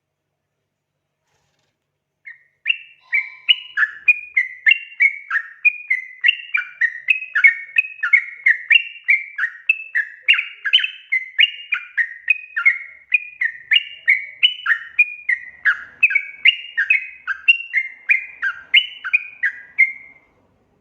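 Sooty-headed bulbul (trucukan) song: after about two seconds of silence, a long unbroken run of quick chirping notes, about three a second, many sliding down in pitch, which stops shortly before the end.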